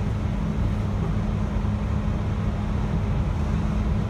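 JR 721 series electric train running at speed, heard from inside the carriage: a steady low rumble of wheels and running gear on the rails, with no distinct joint clicks.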